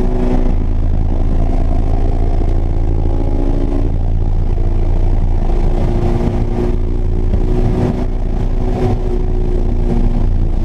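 Honda S2000 AP1's 2.0-litre F20C inline-four running hard at speed on a race track, with a steady engine note that dips briefly about four seconds in before pulling again.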